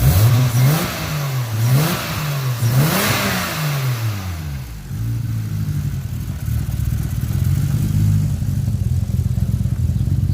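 Saturn Ion Red Line's four-cylinder engine, its too-loud exhaust leaking somewhere up front, revved three quick times and then dropping back to a slightly uneven idle, wonky while still cold.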